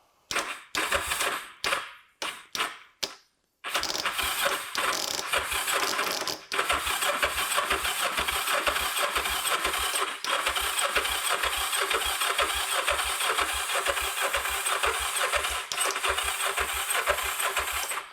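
Kawasaki GPZ500S water-cooled parallel-twin being turned over on its electric starter: a few short stabs, then a long stretch of cranking with an even rhythm of compression thumps that stops without the engine catching. The owner thinks the battery is a little limp.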